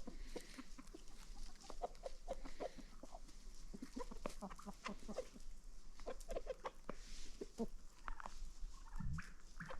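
Chickens clucking: many short, overlapping clucks from several birds, scattered throughout.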